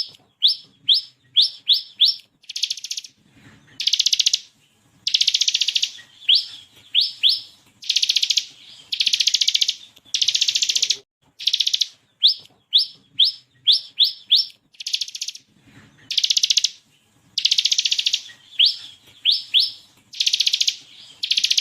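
A ciblek kristal (bar-winged prinia) singing continuously, alternating fast rattling trills with quick runs of two to five sharp, rising whistled notes.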